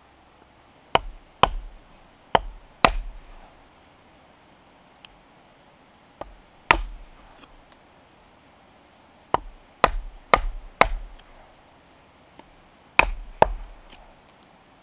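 A hand tool striking wood in sharp chopping blows, each with a deep thud, coming in groups of two to four about half a second apart with pauses between.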